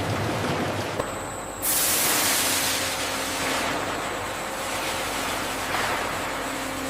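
A steady hissing rush of noise that jumps louder about a second and a half in, then holds.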